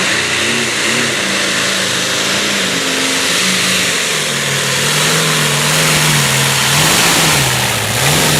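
Competition pulling tractor's engine running loud under throttle, its pitch wavering up and down rather than holding steady, over a dense roar of noise.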